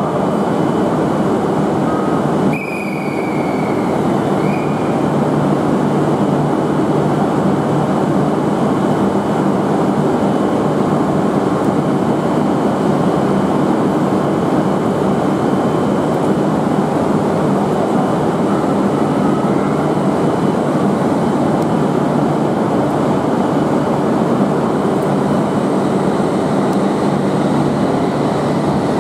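Shinkansen train at the station platform: a steady loud rail noise with a low hum underneath, broken briefly about two and a half seconds in by a click and a short falling whine.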